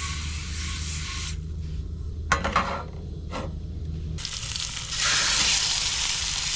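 Pork frying in a hot pan. After a couple of sharp knocks of handling, the sizzling swells loud about four to five seconds in and stays steady.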